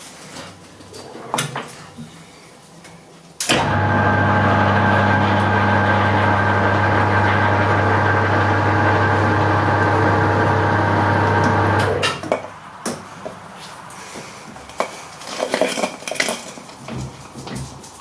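Hare and Forbes AL335 metal lathe switched on in gear, its motor and gearbox running with a steady hum and whine for about eight seconds while powering a tap through the workpiece, then stopping. Metallic clicks and clunks of levers and tools come before it starts and after it stops.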